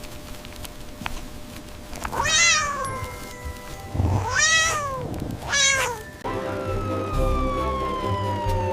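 A cat meowing three times, each meow rising and then falling in pitch, over background music. In the second half a long tone slides slowly down in pitch.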